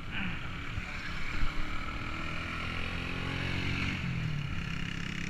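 Motor vehicle engine running, its pitch rising and falling about four seconds in, over steady road and wind noise.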